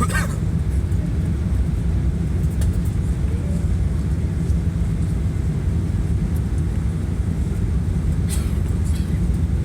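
Steady low rumble of an Airbus A380 airliner heard from inside the cabin, with a few faint clicks.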